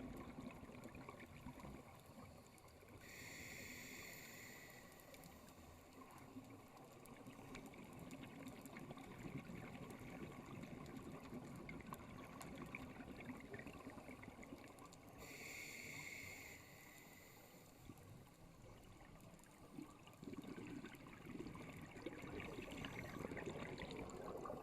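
Faint underwater ambience with a low rumble of water and bubbles, and the hiss of a scuba regulator twice, about twelve seconds apart, each lasting about a second and a half.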